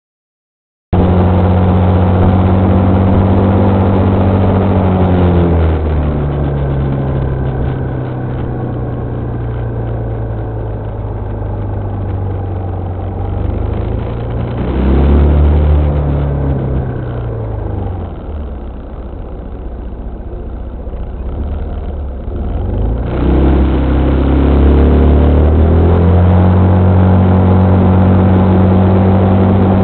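A car engine running, its pitch dropping as it slows down about five seconds in, rising and falling again about halfway through, then climbing near the end and holding steady at a higher pitch.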